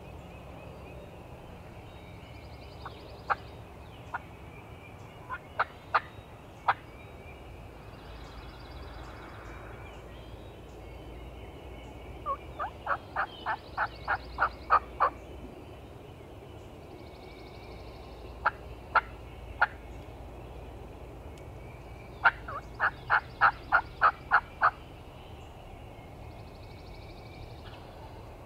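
Wild turkey hen yelps: runs of eight or nine sharp, evenly spaced notes, about three a second, with single yelps between the runs. Fainter, higher trills sound in the background.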